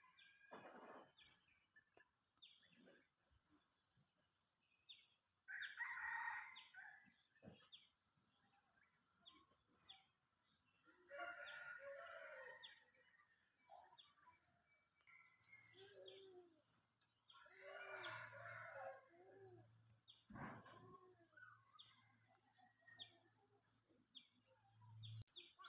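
Budgerigars chirping softly: short high chirps and fast chattering trills repeating throughout, with a few lower, busier bursts of chatter now and then.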